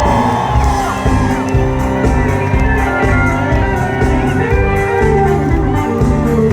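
Live country-rock band playing an instrumental break: a steady drum beat under a lead instrument bending notes up and down over sustained chords.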